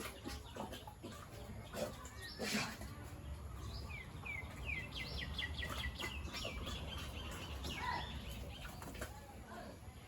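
A bird calling: a quick run of short, high, falling notes in the middle, over scattered farmyard knocks and clicks.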